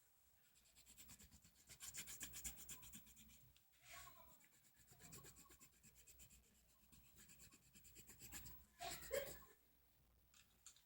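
Felt-tip pen colouring on paper in quick back-and-forth strokes, a faint rapid scratching that comes in two spells.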